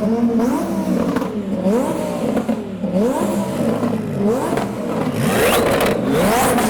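Twin-turbo Audi R8 V10 being revved in quick repeated blips, the engine note rising and dropping about once a second, with exhaust pops and crackles between the revs, thickest in the second half.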